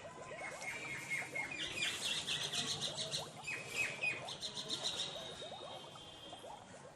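Several small birds chirping and calling at once: quick runs of high chirps that are busiest in the middle, mixed with short lower rising calls.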